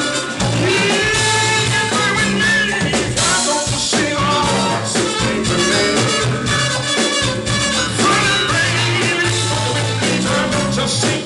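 Band music with a singing voice over a steady bass line and drums.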